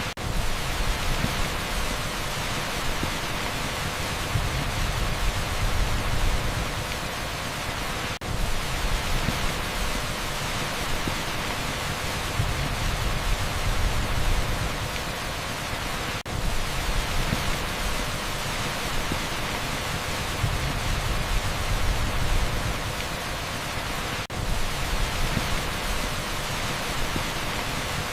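Heavy downpour on an asphalt street: a dense, steady hiss with low rumble underneath. The sound repeats about every eight seconds, each repeat marked by a brief dip in level.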